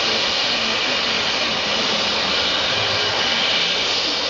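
Steady, loud hiss of steam escaping from a GWR Castle class steam locomotive.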